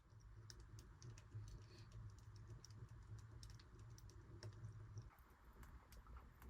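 Faint, irregular light ticking of falling wet snow landing on surfaces, over a low steady hum that stops about five seconds in.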